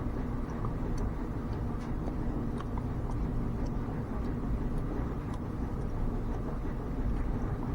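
A steady low mechanical hum from a machine running, with a few faint ticks scattered through it.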